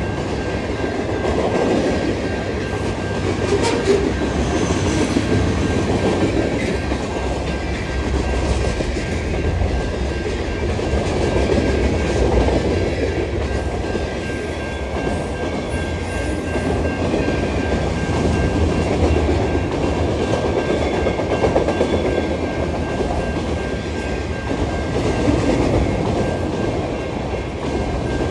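Freight train rolling past: steady rumble and clickety-clack of car wheels over the rails, with a faint steady high-pitched tone.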